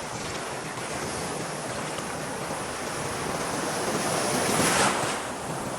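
Ocean surf rushing steadily, with a wave swelling and breaking loudest about four and a half seconds in before easing.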